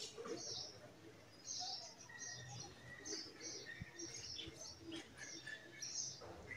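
Small birds chirping faintly in short repeated bursts, with a few brief thin higher calls.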